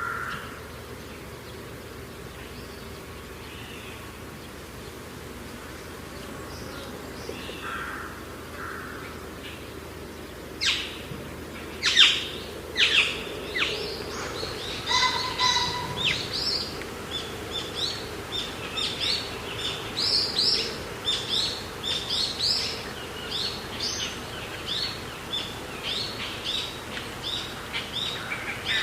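Birds calling and chirping over a steady background hush: a few faint calls at first, then from about ten seconds in a busy run of sharp, falling chirps that come several times a second.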